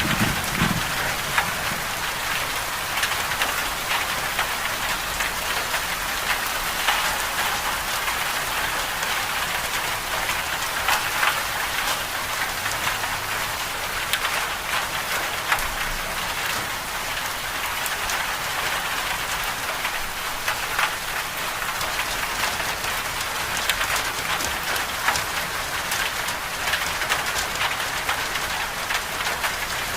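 Steady medium rain falling, an even hiss dotted with many separate drop ticks. The tail of a low thunder rumble dies away in the first second.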